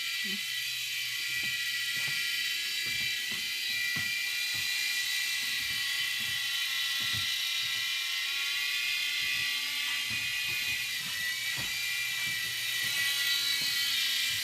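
Small electric toy RC helicopter in flight: its motor and rotors give a steady, high whine, with faint scattered ticks.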